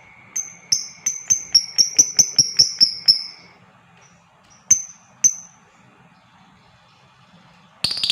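Lovebird calling: a run of about ten sharp, high chirps at about three a second, two more a little later, then a short rapid chattering burst near the end.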